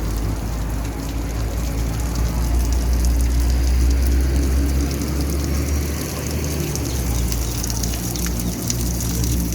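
Falling water splashing steadily in a park fountain or cascade, with many small drips and splashes, over a low rumble that is strongest in the first half.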